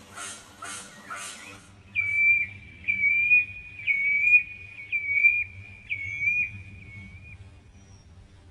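Bird calling: a quick run of harsh, scratchy chirps about three a second, then a series of about five clear whistled notes on one pitch, each opening with a sharp upward flick, fading out near the end.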